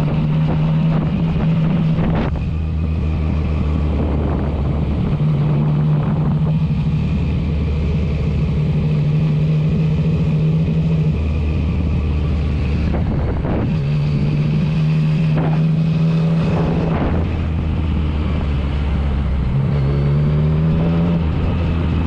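Yamaha MT-09 Tracer's three-cylinder engine running while riding, its pitch holding steady in stretches and shifting as the revs change, with a short rise near the end.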